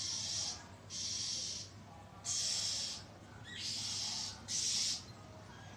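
Oriental magpie-robin giving its harsh, hissing scold, a threat call repeated five times in short rasps of about half a second to a second each.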